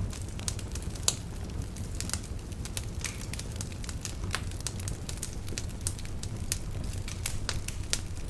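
Log fire crackling and popping: irregular sharp snaps over a steady low rumble of burning wood, one louder pop about a second in.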